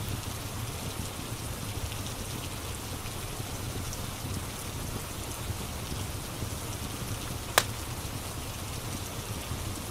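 Steady rain, with the low rumble and faint scattered crackles of a wood fire. One sharp pop stands out about three-quarters of the way through.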